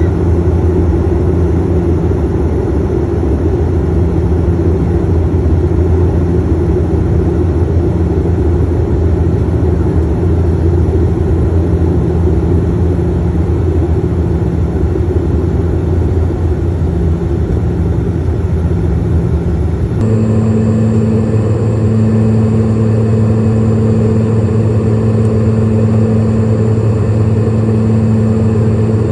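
Steady engine drone of an airliner heard inside the cabin in flight, a deep hum under a broad rushing noise. About two-thirds of the way through the sound shifts abruptly to a slightly different, equally steady drone.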